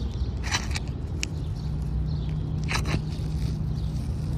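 A few short scrapes and cracks as a snake tool is worked under brittle, hail-damaged asphalt shingles to break the seal and free the shingle, over a steady low rumble and a low hum that comes in about a second and a half in.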